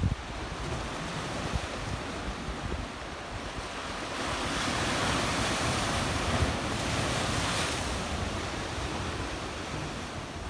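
Black Sea waves splashing on a rocky shore, the wash swelling about four seconds in and easing off toward the end, with wind buffeting the microphone.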